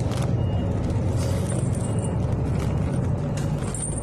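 Inside a city bus on the move: the engine and road noise make a steady low rumble, with the cabin rattling and a few short clicks and hisses.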